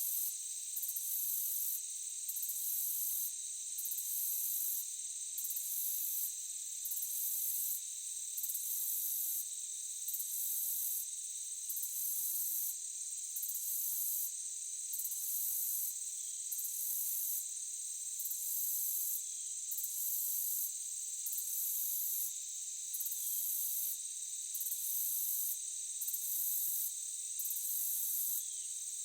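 Insect chorus: a steady, high-pitched drone with a still higher shrill trill that pulses on and off about every second and a half.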